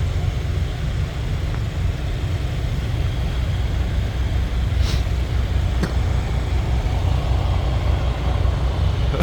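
Steady low rumble of a vehicle engine running, with two brief clicks about halfway through.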